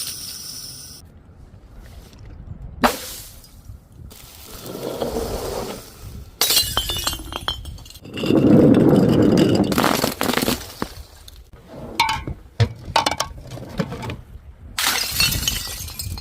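Glass bottles shattering in a series of separate crashes, with shards clinking and tinkling after the impacts. The loudest, densest crash comes about eight to ten seconds in, and the sounds stop and start abruptly between short clips.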